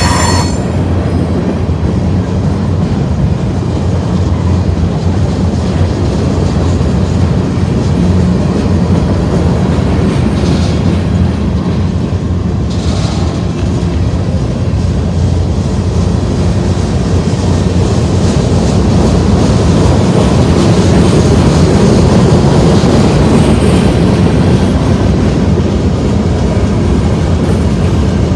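Union Pacific manifest freight train rolling past, with a steady loud rumble and the clatter of wheels over the rail joints. A brief high wheel squeal comes right at the start, fainter squeals follow about 10 and 13 seconds in, and the sound grows slightly louder in the last third.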